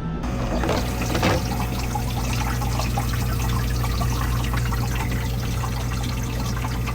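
Water pouring and splashing steadily, starting a moment in, over a steady low hum.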